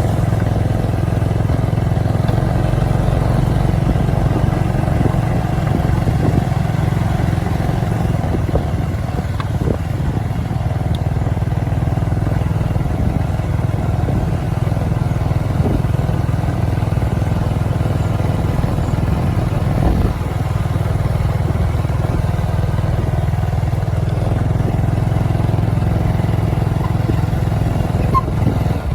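Motorcycle engine running steadily while being ridden, at an even speed and load.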